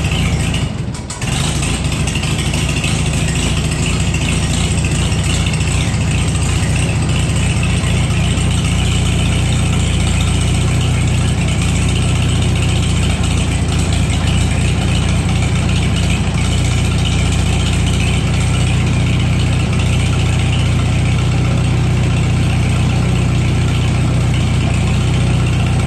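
Farmall H tractor's four-cylinder gasoline engine idling steadily while still cold from a 25°F start. The sound dips briefly about a second in, then runs on unchanged.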